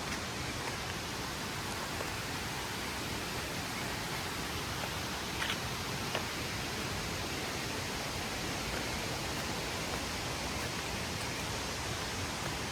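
Steady rushing noise of running water, even throughout, with a couple of faint ticks near the middle.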